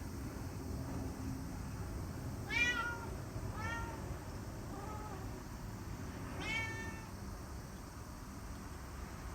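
Domestic cat meowing four times, short calls that rise and fall in pitch, the first and last the loudest, over a low steady background hum.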